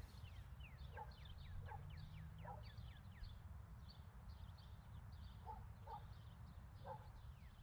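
Faint chirping of birds: many quick high notes sliding downward, with softer short calls every second or so, over a low steady hum.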